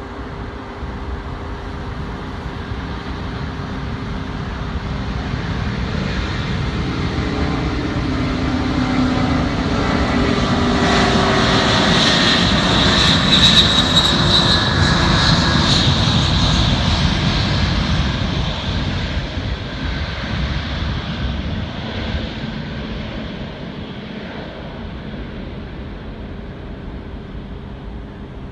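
Antonov heavy cargo jet's turbofan engines at takeoff power as it passes by: the engine noise builds, with a few tones gliding down, peaks about halfway through, then fades slowly as the aircraft moves away.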